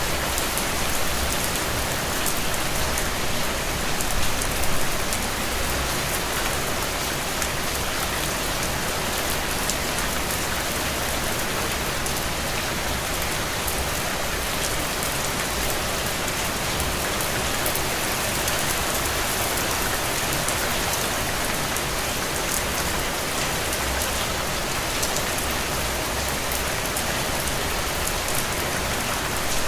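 Steady rain falling on a window, a dense even patter with many fine drop ticks.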